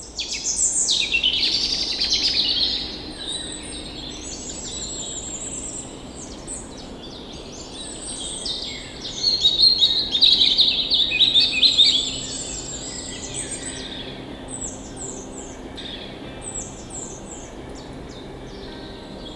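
Several birds singing and calling over one another in a dense chorus of chirps and warbling phrases. It is loudest in the first three seconds and again from about nine to twelve seconds, with runs of short quick chirps later on.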